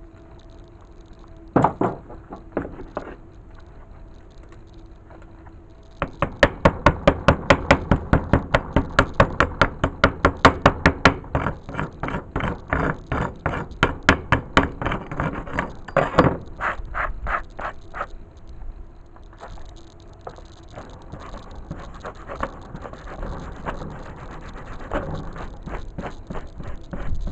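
A few separate sharp knocks, then a long run of rapid, evenly spaced knocks, about six a second, lasting about twelve seconds, followed by fainter, irregular tapping.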